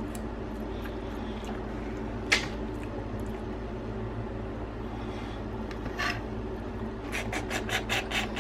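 Eating a boiled crab: wet shell-cracking and sucking and chewing sounds, with a sharp crack a couple of seconds in and a run of quick wet smacks near the end, over a steady low hum.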